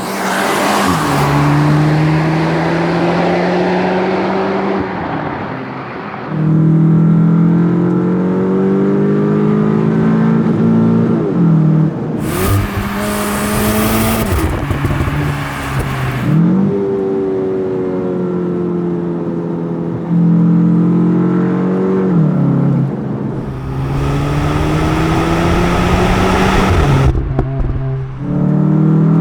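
Cupra Formentor VZ's turbocharged 2.0-litre inline four-cylinder driven hard through the gears. The engine note climbs in pitch and then falls abruptly at each shift, about half a dozen times, with a couple of spells where a loud hiss rises over it.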